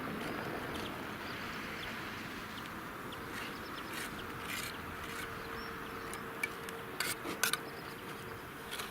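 Steady hiss of distant road traffic, with a faint steady hum through the middle and a few sharp taps near the end from bricks being tapped into place with a trowel handle.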